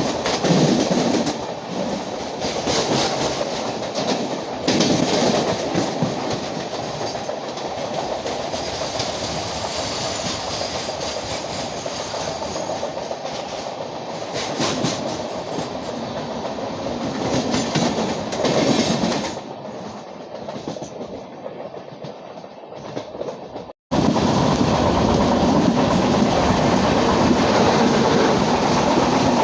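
Train running at speed on the rails, wheels clattering over the track with a steady rumble; about 24 s in the sound drops out for an instant and comes back louder and steadier.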